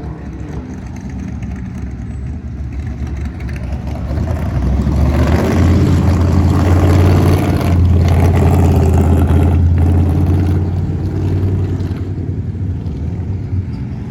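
A classic car's engine and exhaust passing slowly, a low steady rumble that grows louder about a third of the way in, holds at its loudest through the middle, and fades toward the end.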